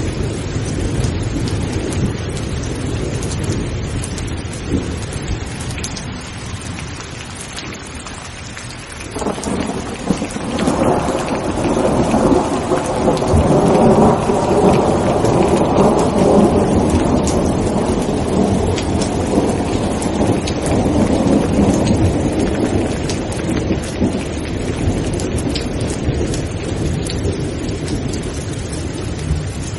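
Rain falling steadily, with a roll of thunder that breaks in suddenly about nine seconds in, swells for several seconds and slowly dies away, under a lower rumble earlier on.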